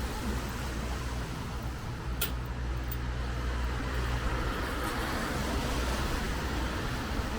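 Street traffic: a vehicle engine running with a steady low drone over a background of road noise, and one short sharp click about two seconds in.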